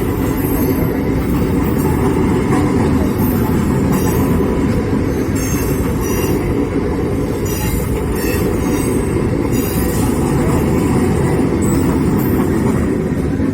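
Train running past at speed: steady, loud rumble and rattle of wheels on the rails, with short high-pitched wheel squeals recurring through the middle.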